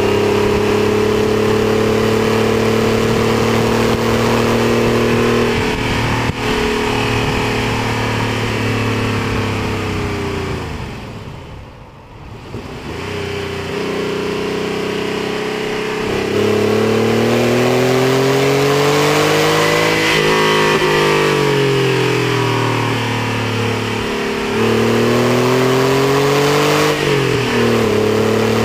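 Porsche 964's air-cooled flat-six driven hard on a race track, revving up through the gears with gear changes. The engine lifts off and falls quiet for a couple of seconds near the middle, then pulls hard again, with wind rushing past throughout.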